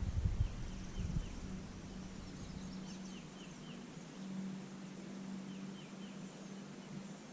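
Outdoor bird calls: short falling chirps in groups of three or four, repeated several times, over a steady low hum, with a few dull knocks in the first second.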